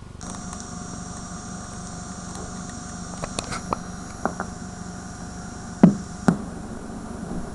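VHS playback static: a steady buzzing hum with hiss, from a tape recorded in EP/SLP mode played back at SP speed. Scattered sharp clicks and pops break through, the two loudest about six seconds in.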